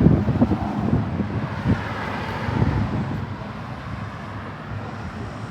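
Vehicle engine running amid wind buffeting on the microphone.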